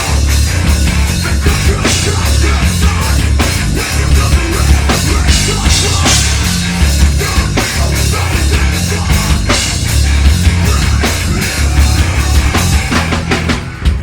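Live heavy metal band playing: distorted guitars, bass and a pounding drum kit, with dense rapid drum hits and a heavy low end. The music thins out briefly just before the end.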